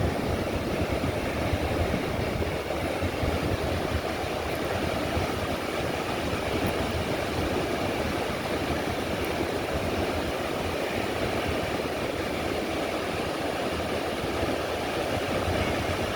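Wind buffeting the microphone over the steady rush of ocean surf, a continuous rumbling noise with no let-up.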